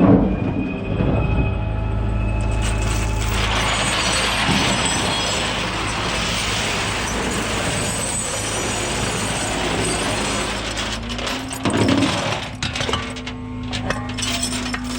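A truck engine running steadily, with a long rushing hiss and mechanical clatter through the middle, then a knock and a steady hum near the end.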